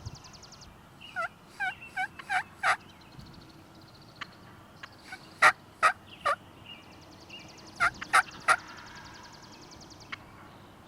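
Wild turkey yelping: a run of five short yelps growing louder, then two more sets of three loud yelps. A small bird's high, fast trill sounds at the start and again near the end.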